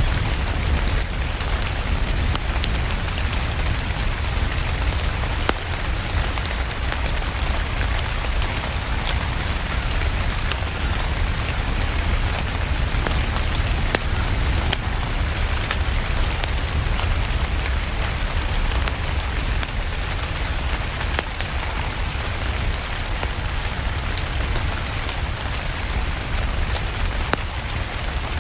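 Steady rain mixed with a crackling wood fire: an even hiss with frequent sharp pops and a low rumble underneath.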